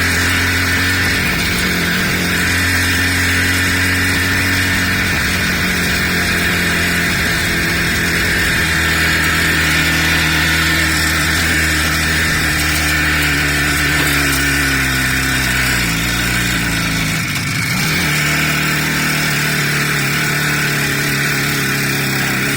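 Motor vehicle engine running steadily while under way. About two-thirds of the way through, its pitch falls, as in slowing down or changing gear, then it settles at a steady lower pitch.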